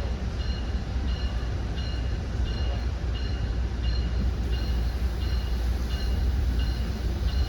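Commuter train interior: a steady low rumble with a high electronic beep repeating evenly about every two-thirds of a second.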